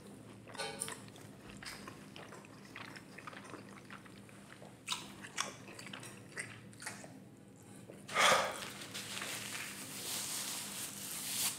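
Close-miked wet chewing and lip-smacking mouth sounds, with soft scattered clicks. About eight seconds in comes a short loud burst, then paper napkin rustling against the face.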